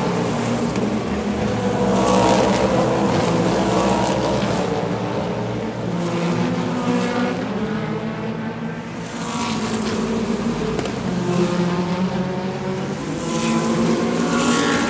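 Hypercar prototype racing cars passing one after another at high revs, their engine notes swelling and fading as each goes by. The loudest passes come about two seconds in and near the end, with a short lull in between.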